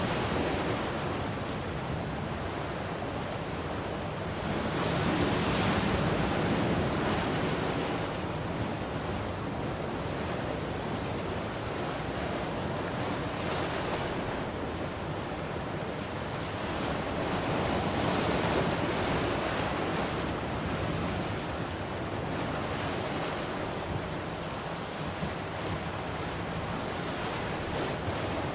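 Ocean waves breaking and washing on a shore, a steady surf noise that swells twice, around five seconds in and again near eighteen seconds.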